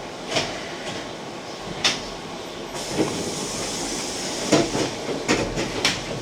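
Keihan electric train standing at a station stop with its doors open: a steady mechanical hum and hiss, with irregular clicks and knocks, a few of them close together near the end.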